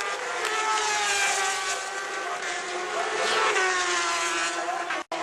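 Superbike racing motorcycles running at race speed, several engines heard at once with their pitch sliding up and down through gear changes and as the bikes pass. The sound cuts out for an instant near the end.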